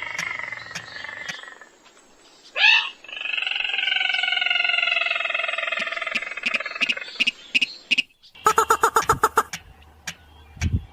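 Crake calls played as a hunting lure. Long, drawn-out notes slowly fall in pitch, with a sharp swooping note about three seconds in. About eight seconds in comes a fast pulsed rattle, which starts again near the end.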